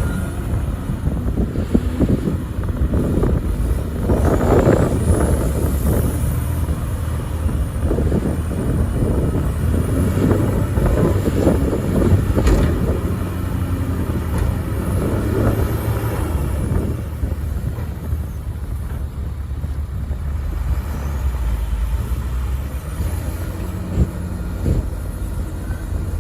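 Heavy diesel earth-moving machinery running steadily, with a stretch of clattering and knocks between about four and seventeen seconds in.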